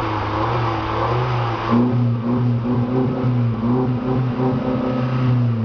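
Peugeot RCZ engine held at raised revs through an aftermarket remote-controlled (valved) exhaust, a steady exhaust drone with a harsher rasp for the first two seconds that then eases.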